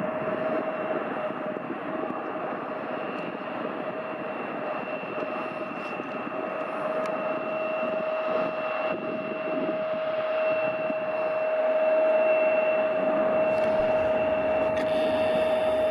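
Boeing 737-800 jet airliner's CFM56 engines running, a steady roar with a high whine that grows louder over the last few seconds.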